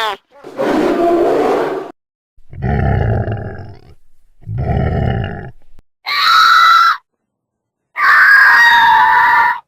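A run of five separate animal calls, each about a second long. The first three are low and rough; the last two, from about six seconds in, are loud, high-pitched goat screams.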